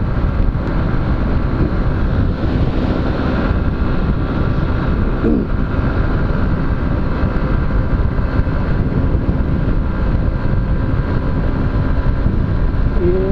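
Honda CG 125 Fan motorcycle's single-cylinder engine running steadily on the move, a dense low rumble with no breaks.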